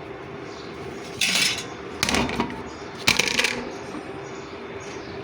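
Three short bursts of metal clinking and jangling, about a second apart, over a steady hum.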